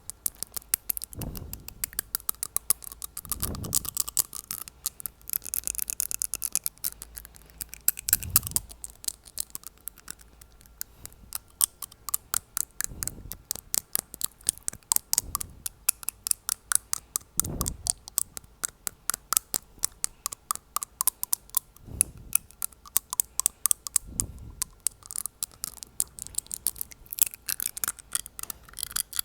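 Rapid tapping on teeth close to the microphone: dense sharp clicks, several per second, throughout. A few short, low puffs of breath blown onto the microphone break in here and there.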